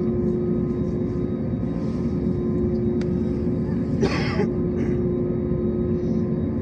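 Steady cabin drone of an Airbus A321neo's Pratt & Whitney PW1100G geared turbofans at low power before the takeoff roll, with a constant hum in several tones. A short cough cuts in about four seconds in.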